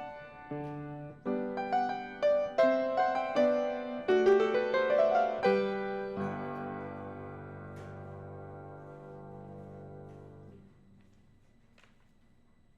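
Piano playing a slow passage of single notes and chords, with a rising run of notes, then a final chord held for about four seconds before it is released and cut off.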